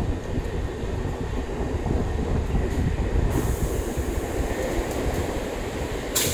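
MEMU electric train coaches running slowly along the platform, with a steady low rumble of wheels on rails heard from the coach doorway. A higher hiss comes in about halfway through, and a sharp click sounds near the end.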